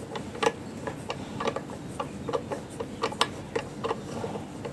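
Light metal clicks and taps at an uneven pace, about two to four a second, as small engine parts are handled and worked loose by hand.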